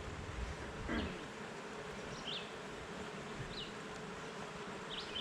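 Honeybees buzzing around an open hive, a steady hum. Short high chirps come through about every second and a half.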